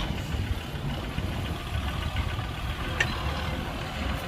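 Engine of heavy diesel machinery idling with a steady low rumble, with a single sharp click about three seconds in.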